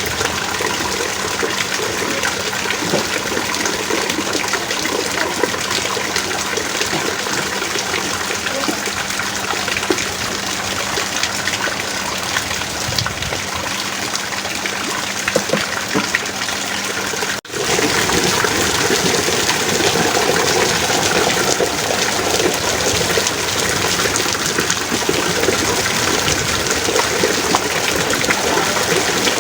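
Heavy rain pouring steadily, a dense hiss speckled with the patter of drops. About two-thirds of the way through it drops out for an instant and resumes slightly louder and fuller.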